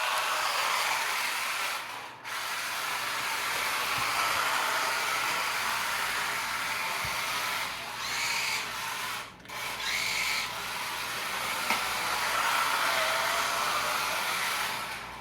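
RC drift car running hard on a basement floor: the electric motor whines under throttle, with tyre hiss. It drops out briefly twice, about two seconds in and again near nine and a half seconds, and a higher whine rises twice near the middle.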